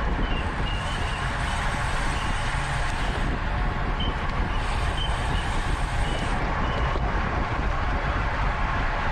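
Steady wind and road noise on a bicycle-mounted microphone while riding in a criterium bike race, with short high chirps now and then.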